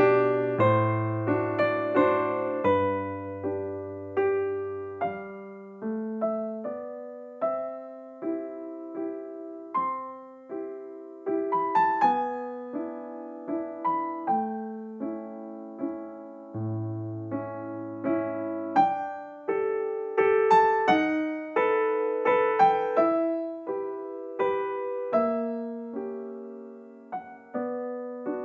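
Gentle background piano music: a slow melody over sustained chords, each note struck and fading.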